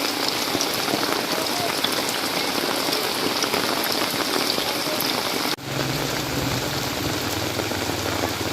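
Heavy rain pouring down in a steady hiss. It briefly cuts out about five and a half seconds in, and a low hum runs under the rain after that.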